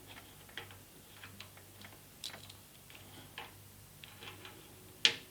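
Light clicks and taps of welding-machine parts and cable connectors being handled and fitted, with one sharp, louder click about five seconds in.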